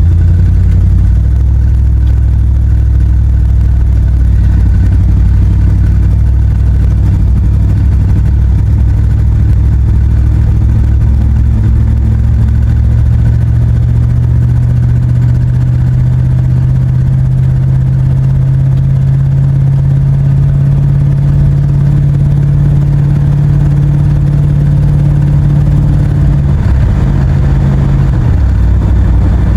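Wood-gas-fuelled truck engine running while driving. Its pitch climbs slowly for a long stretch as the truck gathers speed, then falls away about three seconds before the end.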